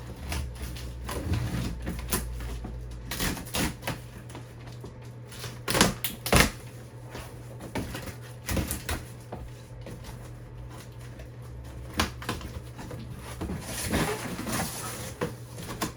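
Cardboard shipping box being opened and handled: irregular knocks, clicks, scrapes and rustles of flaps and packing, with a few sharper knocks, the loudest about six seconds in.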